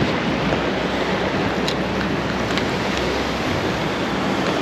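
Steady rushing of flowing stream water, mixed with wind buffeting the microphone as a low rumble.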